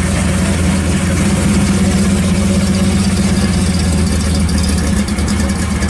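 Engine of a 1955 Chevrolet Bel Air hot rod with a side-exit exhaust, running steadily at idle with a low-pitched, even engine note.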